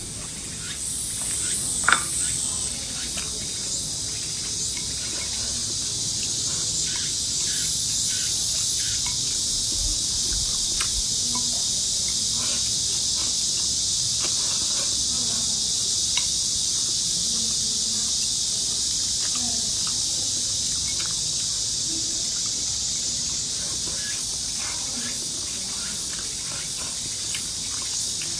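A steady, high-pitched insect chorus, with scattered faint clicks and taps.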